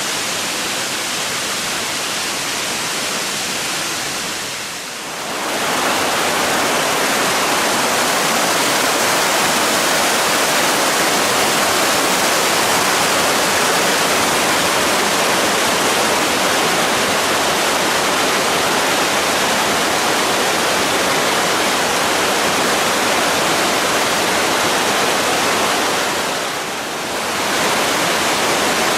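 Waterfall rushing, a steady, loud wash of falling water that dips briefly twice, about five seconds in and near the end.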